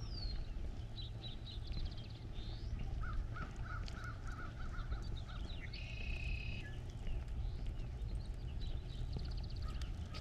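Several birds calling: a falling whistle at the start, high chirps and trills, a quick run of about eight repeated lower notes a few seconds in, and a harsh call about six seconds in. A steady low rumble runs underneath.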